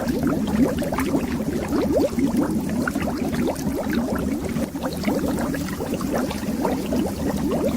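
Air bubbles rising and bubbling underwater, a dense steady stream of many small gurgling bloops.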